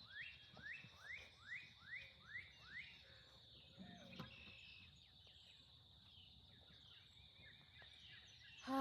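A bird singing a quick series of about seven rising notes in the first three seconds, then quiet outdoor background. A faint steady high-pitched tone runs underneath throughout.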